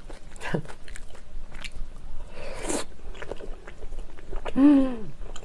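Close-miked chewing of jjajang-sauced noodles and a piece of what she takes for cuttlefish: soft wet mouth clicks and squelches throughout. About four and a half seconds in, a short hummed "mm" rises and then falls in pitch.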